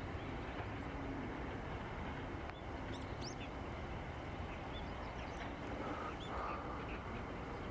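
Faint short bird chirps, a few scattered calls about three and six seconds in, over steady outdoor background noise.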